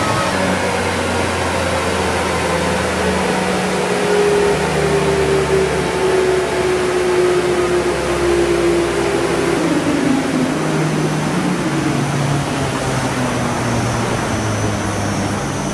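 Audi S3 8V's 2.0 TFSI turbocharged four-cylinder running loud on a chassis dynamometer, with the rollers spinning under the wheels. A whine sinks slowly in pitch, then drops away about ten seconds in.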